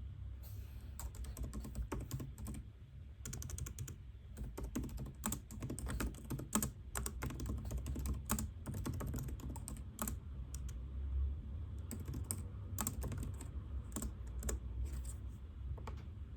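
Typing on a computer keyboard: irregular runs of quick keystrokes broken by short pauses, thinning out near the end, over a steady low hum.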